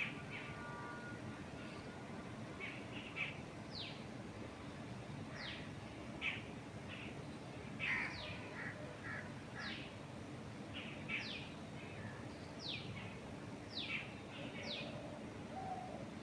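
Small birds chirping: many short, quick notes, each sweeping down in pitch, coming irregularly and at times several a second, over a steady background hiss of wind moving through trees.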